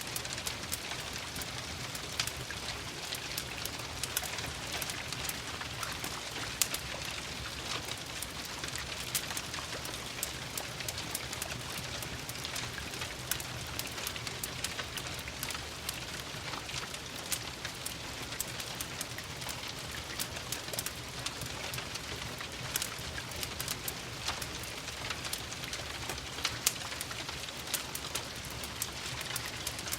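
Steady rain hiss mixed with a crackling wood fire, with frequent short, sharp pops and clicks scattered through it.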